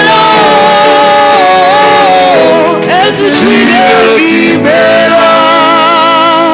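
Loud worship music with singing, held notes wavering in pitch over sustained accompaniment.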